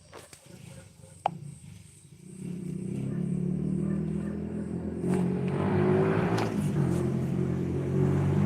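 A motor vehicle's engine running, coming in loud about two seconds in and then holding a steady low drone, preceded by a few sharp clicks.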